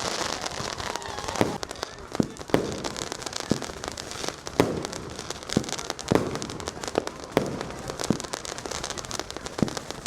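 Fireworks and firecrackers going off: a dozen or so sharp bangs at irregular intervals over a continuous crackle.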